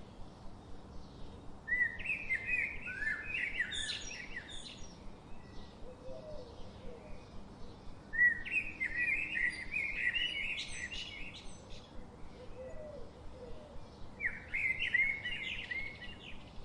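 A bird singing three warbling phrases of quick rising and falling notes, each about three seconds long, spaced about six seconds apart.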